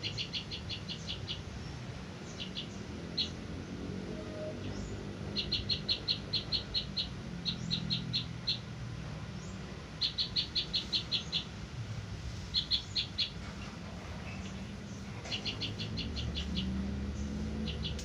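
A small bird calling in quick bursts of short, high chirps, about six a second and five to eight notes to a burst, repeated every couple of seconds, over a low rumble.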